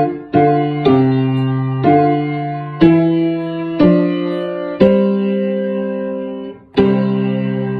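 A piece played on piano, chord by chord: a new chord is struck about once a second, then one is held for about two seconds, and a final chord struck near the end is left ringing and fading.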